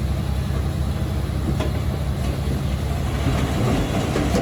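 Diesel engine of a small crawler bulldozer, a Komatsu D21P, running steadily under load with a deep rumble. There are a couple of sharp metallic knocks, about a second and a half in and again at the end.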